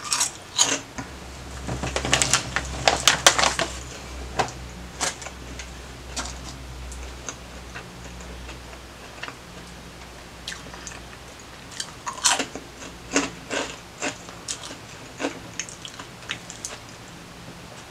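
Close-up chewing of lime Hot Cheetos: sharp crunchy crackles come in clusters, a burst around two to four seconds in and another around twelve to sixteen seconds in, with quieter chewing in between.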